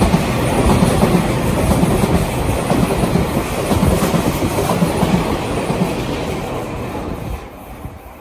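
Tobu Railway limited express Ryōmō passing through a station at speed on a curve: steady running noise of wheels on rails, fading near the end as the train draws away.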